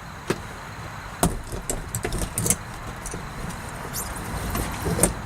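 Scattered clicks, taps and rustles of hands working sound-deadening sheets inside a car, over a low steady hum, with a few sharper knocks.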